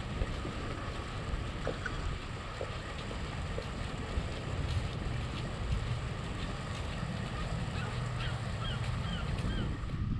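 Wind buffeting the microphone in a steady low rumble, with a few faint short high chirps near the end.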